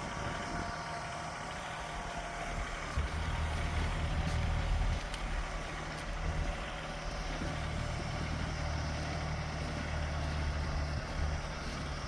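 Tractor engine running with a steady low drone, growing louder a couple of times as it works to clear heavy snow.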